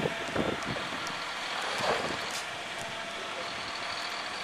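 City bus stuck on an icy, snow-covered street, its engine running as it strains for traction, under a steady hiss of noise with short swells near the start and about two seconds in.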